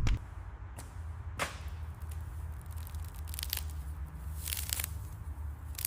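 Scattered sharp cracks and short crackling, tearing bursts, with a louder snap at the end, as charred coating is broken and pried off a fire-damaged car body. A low steady hum runs underneath.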